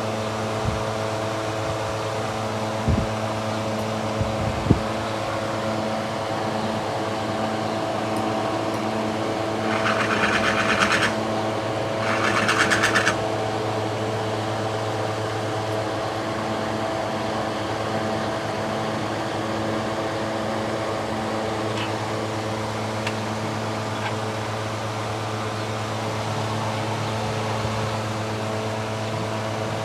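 A steady machine hum, even and unchanging, with two short hissing bursts about ten and twelve seconds in and a few light clicks early on.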